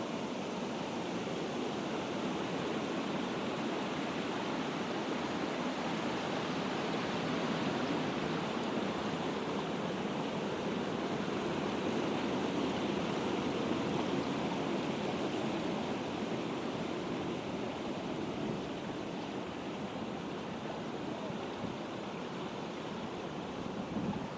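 Water rushing steadily over a waterfall, a continuous splashing roar that grows a little louder toward the middle and then eases off.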